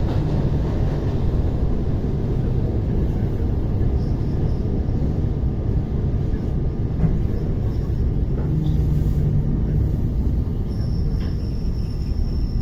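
Steady low rumble and hum inside the passenger car of an ER9T electric multiple-unit train. A faint high-pitched whine comes in near the end.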